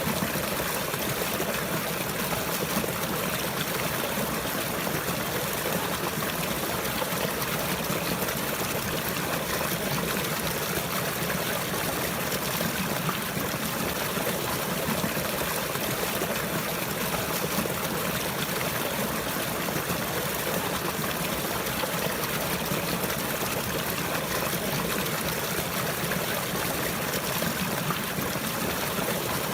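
Water flowing and trickling steadily, an even continuous rush with no pauses.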